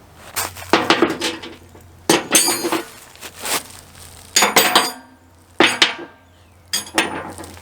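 Metal tools and parts clanking and clinking together: about seven separate knocks and rattles, some ringing briefly, as the parts are fitted by hand.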